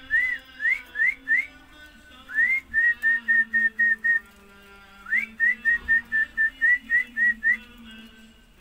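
Whistled melody: runs of short, clear, high notes in quick succession, about four a second, pausing briefly twice, over a faint steady low tone.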